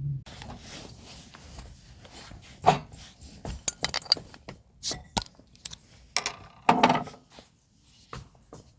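Gear being handled by hand: a run of irregular knocks and clicks with rubbing and rustling between them, the loudest knocks about three seconds in, near five seconds and near seven seconds.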